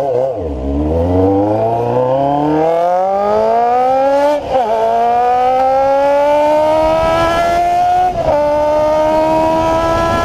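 Honda CB-1 400's inline-four through an open, free-flow exhaust, accelerating up through the gears. The engine note climbs steadily, dips at a gear change about four and a half seconds in and again about eight seconds in, then rises again more slowly.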